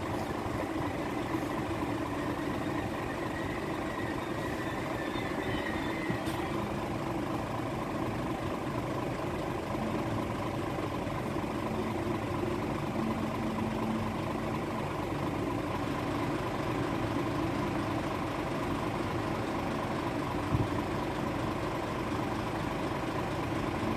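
Steady low hum of idling vehicles, with a single short knock about twenty seconds in.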